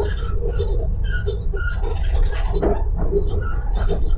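Passenger train running, heard from inside the carriage: a steady low rumble, with short higher-pitched sounds coming and going over it.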